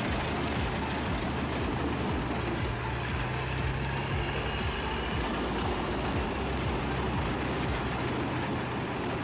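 A heavy machine's engine running steadily: an even mechanical rush over a low steady hum, with no change in pace.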